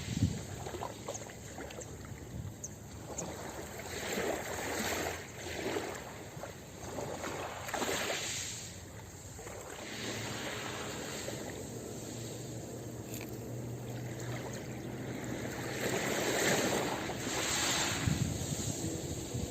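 Ocean waves washing onto a beach, the surf rising and falling in several surges as each wave breaks and draws back.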